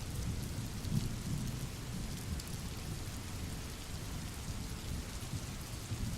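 Rain-and-thunder sound effect: steady rain hissing with scattered drop ticks, over a continuous low rolling rumble of thunder.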